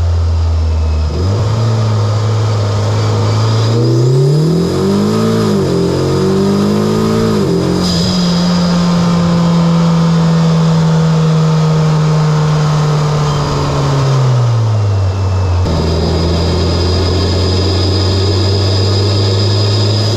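Mitsubishi Lancer Evolution X's turbocharged four-cylinder engine, fitted with an aftermarket Injen intake and HKS single-exit exhaust, under way at a steady note, then revving up and down a few times, holding higher revs for several seconds, and dropping back to its earlier steady pitch near the end.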